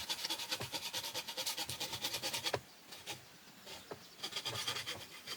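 Rapid, even rasping strokes of a tool working bamboo, about eight a second. They stop about halfway through and start again near the end.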